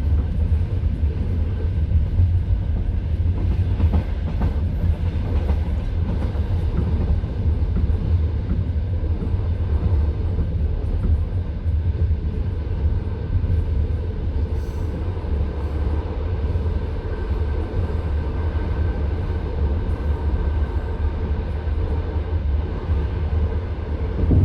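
A passenger train carriage running at speed, heard from inside: a steady low rumble of the wheels on the track.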